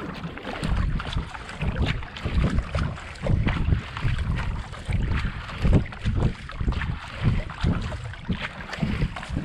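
Racing kayak being paddled hard at steady race pace, the paddle blades catching and splashing in the water in a regular rhythm of roughly 75–80 strokes a minute, with wind buffeting the microphone.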